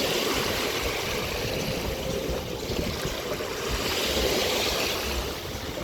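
Seawater washing and splashing at the shore, a steady rushing that swells again about four seconds in.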